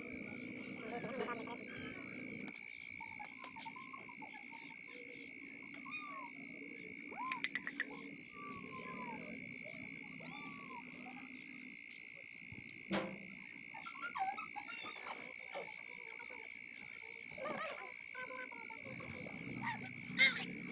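A steady, high-pitched chorus of calling animals, with scattered short chirping calls over it and a few sharp clicks.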